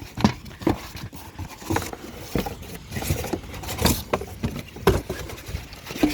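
Footsteps scuffing on hard ground outdoors: irregular knocks and scrapes, about one or two a second.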